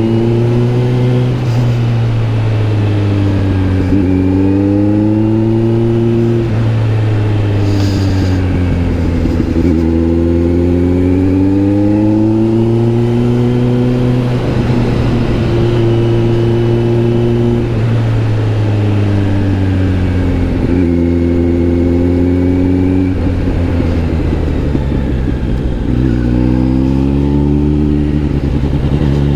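Kawasaki Z900 SE inline-four motorcycle engine through an SC Project S1 aftermarket exhaust, under way. The engine note repeatedly rises as it accelerates and drops at each gear change, with steady cruising stretches in between.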